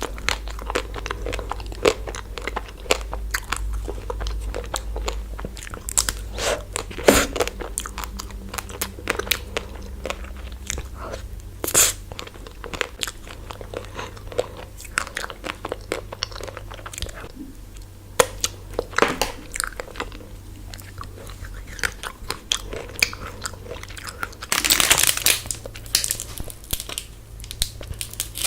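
Close-miked biting and chewing of a chocolate-coated ice cream bar: crisp crunches of the hard coating with wet chewing between. A short, louder rustle comes near the end.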